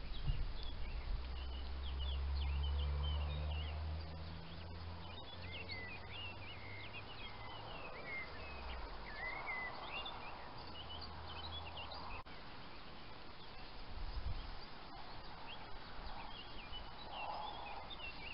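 Small birds chirping and singing, many short calls overlapping throughout, over a low steady hum that is loudest in the first few seconds and fades out about two thirds of the way in.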